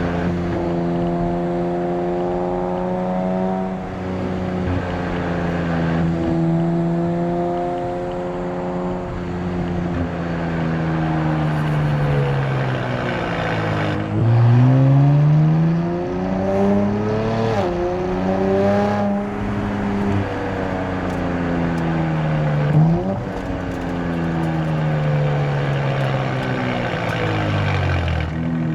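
Nissan Z Nismo's 3.0-litre twin-turbo V6, breathing through Nismo cold air intakes and a Nismo track exhaust, pulling on the road. Its note holds steady, then sags. About halfway through the revs climb hard, drop back at a shift, climb again, and fall away near the end.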